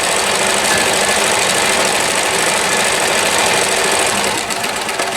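1994 New Home Limited Edition Model 108 sewing machine running steadily, sewing a stretch stitch.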